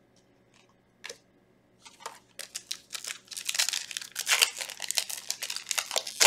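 A Yu-Gi-Oh booster pack's foil wrapper being torn open and crinkled. After a single tick about a second in, a dense run of crackling starts about two seconds in.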